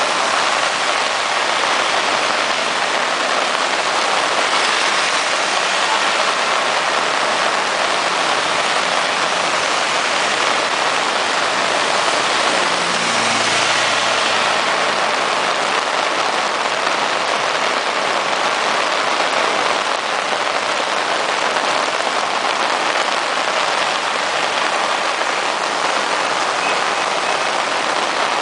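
Heavy rain pouring down as a loud, steady hiss, with a brief low hum about halfway through.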